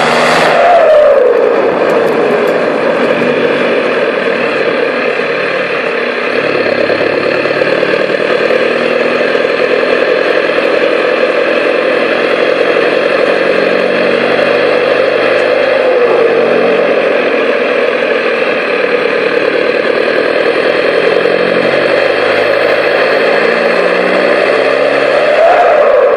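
Straight-piped exhaust of a 2004 Vauxhall Vectra 1.9 CDTi 150 four-cylinder turbodiesel, with no catalytic converter or silencers, running loud and steady. The engine speed dips about a second in and again around the middle, then rises and falls back near the end.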